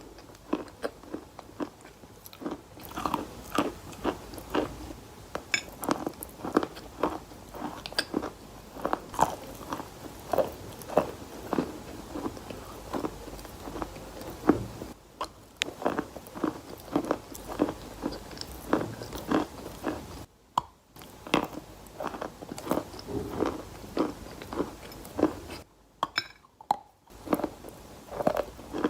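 Wet, gritty sand crunching as it is crushed, in a dense run of sharp grainy crackles several times a second, with a few short pauses.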